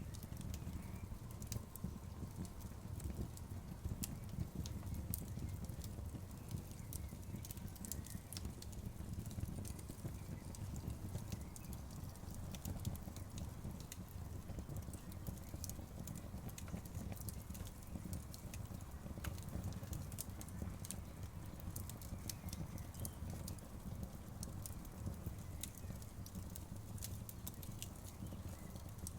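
Bonfire crackling softly: frequent small, irregular snaps and pops over a steady low rumble.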